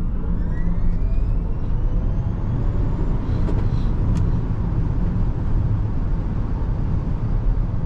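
A 2023 Rivian R1S Quad Motor's electric motors under a full-throttle 0-60 mph launch, heard from inside the cabin. A thin whine rises in pitch over the first three seconds or so, over heavy, steady road and wind rumble that carries on at speed.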